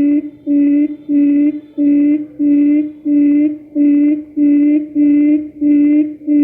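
Quail lure call used for trapping: a low hooting note repeated about twice a second, each note short and at the same pitch.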